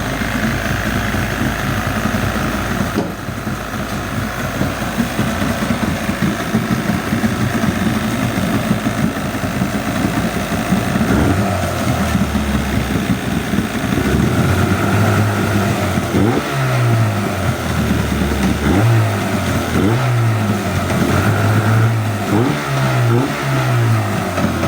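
40 hp Mariner two-stroke outboard motor running, its throttle opened and closed several times in the second half so the engine note rises and falls repeatedly.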